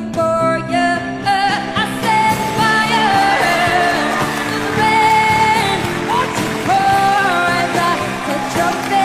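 Pop song: a singing voice holds long notes that slide between pitches over a full band accompaniment, with no clear words.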